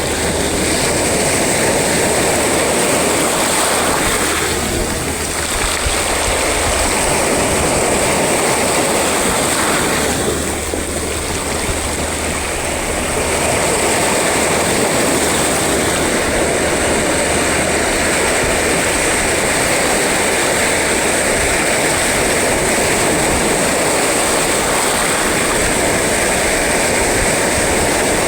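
Steady roar of sea surf and waves, easing briefly about five seconds in and again around eleven seconds in.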